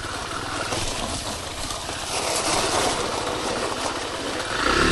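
Kymco KTR 150 motorcycle engine running at low speed, its firing pulses steady under a continuous hiss.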